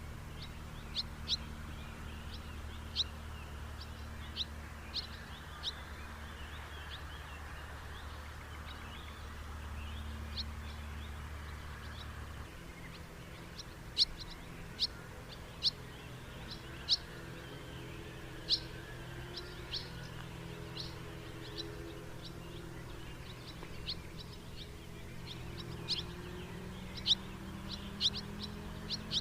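House martins calling: many short, high chirps at an irregular pace, over a steady low background hum.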